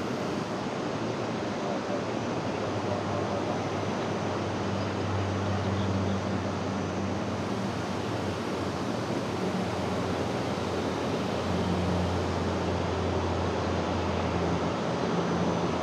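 Jet airliner engine noise: a steady, loud rushing sound with a low hum underneath.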